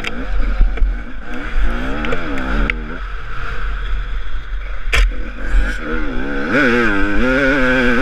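Husaberg TE 300 two-stroke enduro motorcycle engine revving up and down under riding, heard from the rider's helmet camera. A sharp knock comes about five seconds in, and the engine's pitch climbs sharply soon after.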